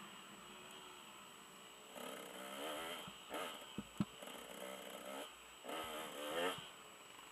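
Off-road motorcycle engine, muffled, revving up and easing off in repeated bursts as the bike is ridden along a dirt track, the pitch wavering up and down. A couple of sharp knocks about four seconds in.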